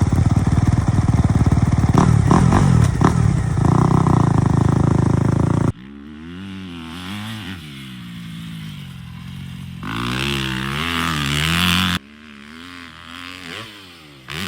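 Yamaha dirt bike engine revving hard and loud for the first several seconds. After a sudden cut it is heard further off, its pitch rising and falling again and again with the throttle. It swells louder for a couple of seconds before another cut.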